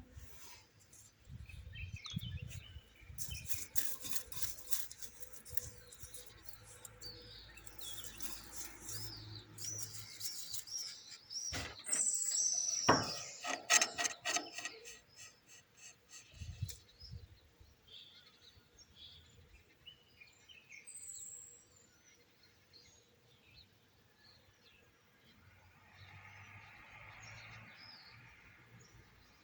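Small birds chirping and tweeting in quick runs of sharp, high calls, busiest and loudest in the first half, then sparser, scattered chirps.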